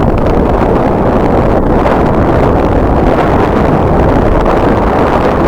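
Strong wind buffeting the microphone: a loud, steady noise, heaviest in the low range, with no pitched tone in it.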